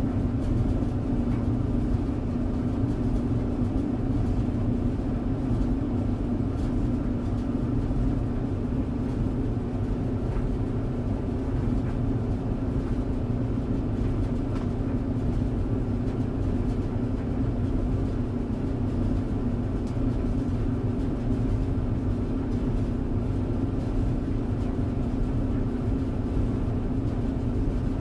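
Tumble dryer running: a steady hum with a low rumble underneath, even and unbroken throughout.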